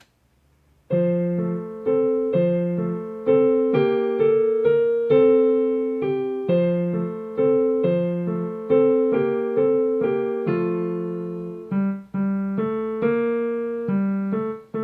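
Piano playing a simple beginner's piece in three-four time, smooth and unhurried, melody notes over lower left-hand notes, starting about a second in.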